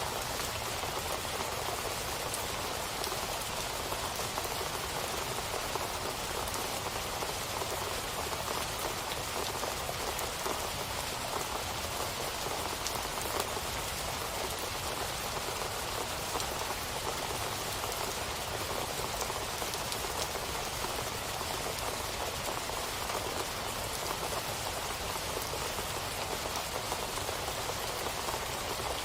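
Steady rain falling, with dense small drop hits on a surface and no lulls.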